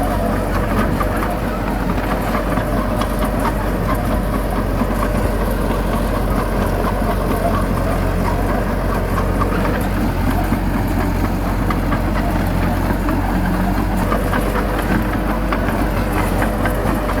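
Heavy diesel engine of earthmoving machinery running steadily at an even speed, a continuous low hum.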